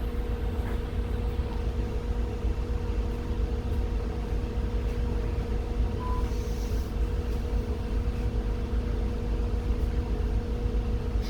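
Scania N280UD double-decker bus's CNG-fuelled Scania DC09 engine running, heard from the top deck as a steady low rumble with an even hum.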